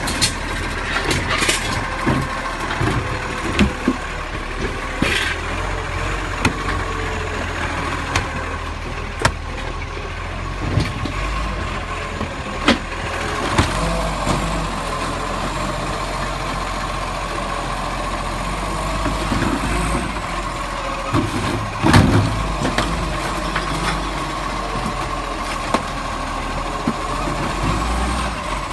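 Garbage truck engine running steadily, with a constant whine and scattered knocks and clanks; the loudest knock comes about two-thirds of the way through.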